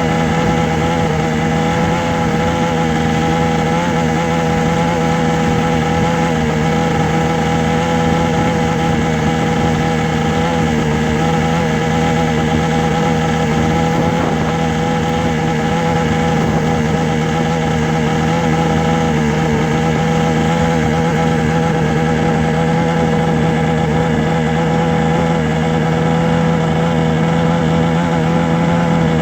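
A steady, unbroken droning hum of several held tones, low and even throughout.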